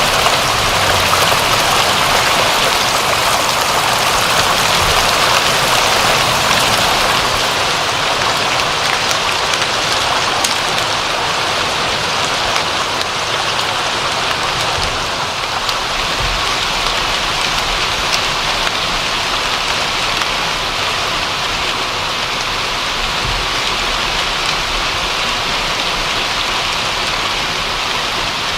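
Steady rain falling and pattering on a surface, a dense even hiss of many drops.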